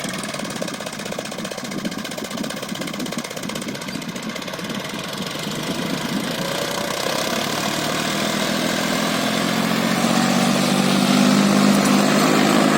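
John Deere 5050E tractor's three-cylinder diesel engine running steadily, growing gradually louder through the second half.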